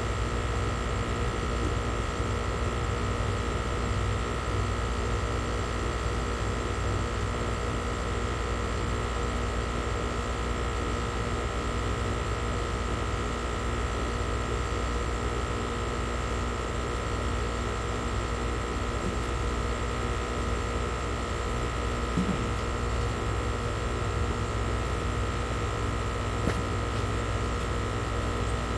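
Air-conditioning unit running: a steady machine hum with several constant tones. A faint knock comes about 22 seconds in.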